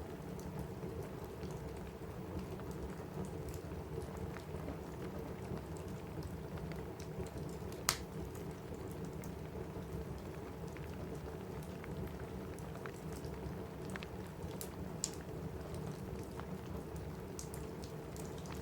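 Steady rain on a roof, an even low rush, with a crackling fireplace: scattered sharp pops and snaps, one louder pop a little under halfway through.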